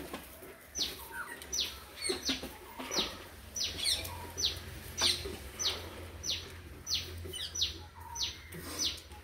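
A bird calling: a short high whistle falling in pitch, repeated evenly about every two-thirds of a second, over a steady low hum.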